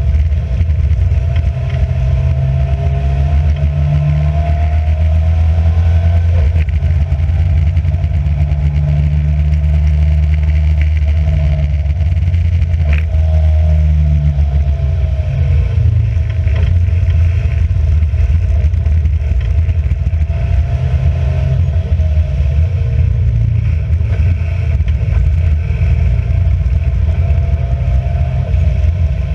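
Race car engine heard from inside the car, running hard at speed, its revs repeatedly climbing and dropping back through gear changes.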